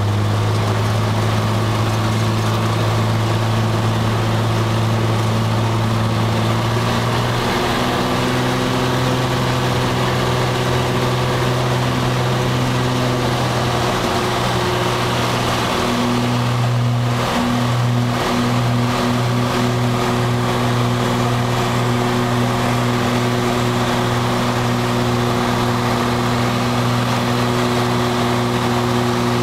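Cessna 182 engine and propeller droning steadily, heard inside the cockpit. The pitch shifts slightly about a quarter of the way in, and the drone wavers briefly a little past halfway.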